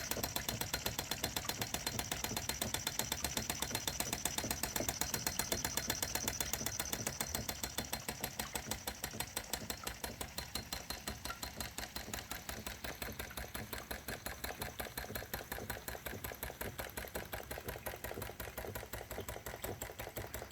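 Vintage Empire B30 toy steam engine running with an Empire B35 toy water pump, making a fast, even clicking that slowly gets quieter.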